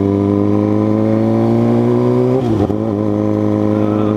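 Suzuki GSX-R600 inline-four engine under way, its pitch climbing slowly as the bike accelerates. There is a short dip about two and a half seconds in, then the engine runs steadily.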